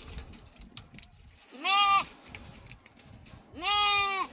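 Sheep or goats of the herd bleating: two loud calls of about half a second each, one near the middle and one near the end.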